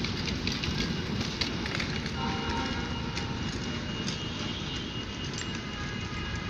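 Train running on the rails: a steady rumble of wheels with scattered sharp clicks, slowly fading as it draws away.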